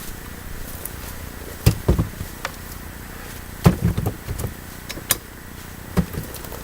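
Axe chopping green, wet firewood by hand: three sharp blows, each followed by one or two smaller knocks.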